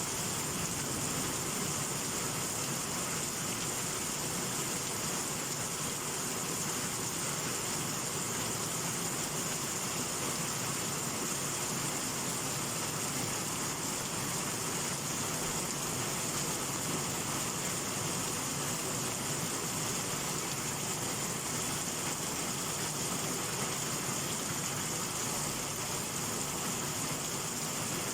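Heavy rain falling steadily in a summer downpour, an even hiss with no thunder.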